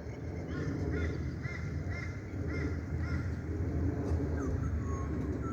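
A bird calling about six times in a row, roughly twice a second, each call a short rise and fall in pitch, with a few thinner, higher calls near the end. Under it runs a steady low rush, fitting the flooded river.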